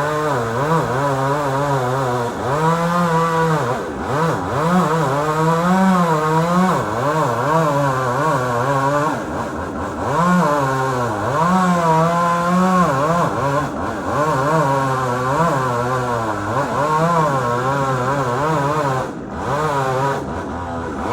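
Chainsaw running under load, its engine pitch rising and falling over and over as it cuts, with a few brief dips in speed.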